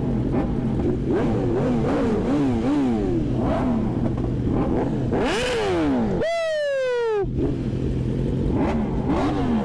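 Several sport-bike engines revving up and dropping back as they shift through the gears over a steady engine hum, during a group ride. About six seconds in, one loud rev falls sharply in pitch for about a second.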